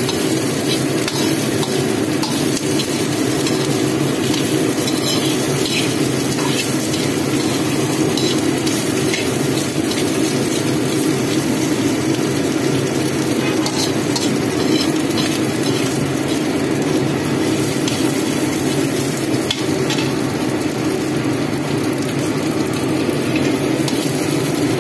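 Pork sausage slices, scallions and garlic sizzling in hot oil in a pan while a metal ladle stirs and turns them, with light clicks and scrapes of the ladle against the pan. A steady low hum runs underneath.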